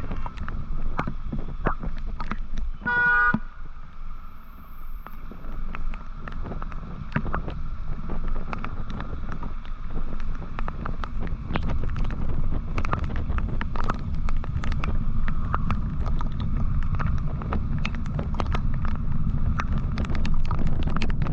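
Steady road and wind noise of a moving vehicle in city traffic, a low rumble broken by many small clicks. A vehicle horn gives one short toot about three seconds in.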